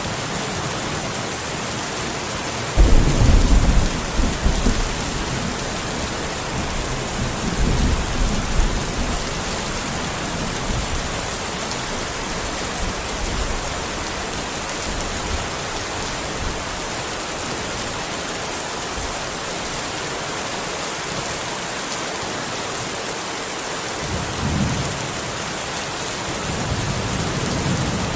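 Steady rain falling, with a sudden low rumble of thunder about three seconds in that rolls on for several seconds, and a fainter roll of thunder near the end.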